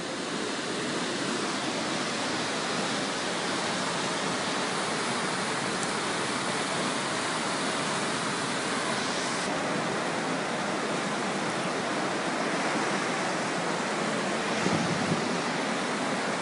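Fast-flowing floodwater rushing, a steady, even wash of noise.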